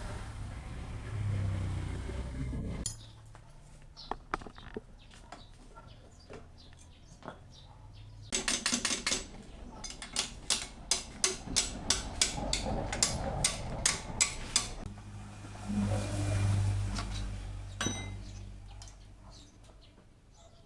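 Metal tools and engine parts clinking, with a run of sharp, evenly spaced taps, about two or three a second, through the middle. A low rumble is heard at the start and again near the end.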